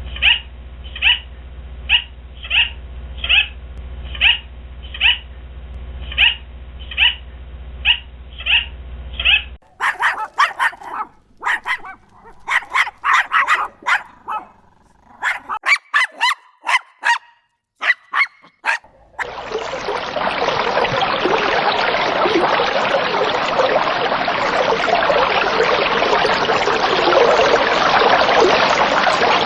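Short animal calls repeated evenly, about one a second for roughly nine seconds, then irregular clusters of sharp calls, then a steady noisy hiss for the last ten seconds.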